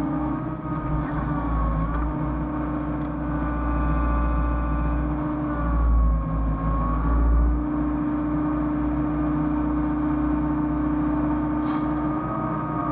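Hyundai excavator's diesel engine running under load, with a hydraulic whine that rises and falls in pitch as the machine works, and the engine swelling louder twice near the middle.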